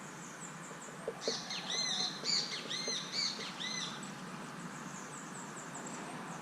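Small songbird at a feeder singing a short run of arched, repeated chirping notes from about a second in until about four seconds in, with faint high chirps before and after.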